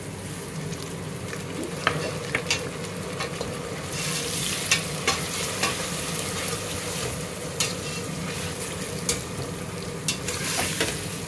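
Chopped tomatoes sizzling as they fry with browned onions in hot oil in a pressure cooker. A metal spatula stirs and scrapes through them, clicking against the pot. The sizzle grows louder about four seconds in.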